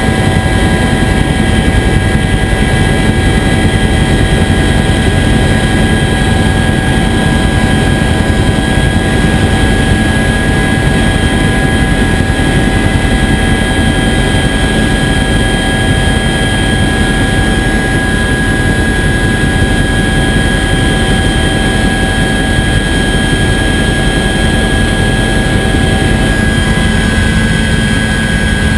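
Bell UH-1 Huey helicopter running steadily: a loud continuous engine and rotor noise with a steady whine on top.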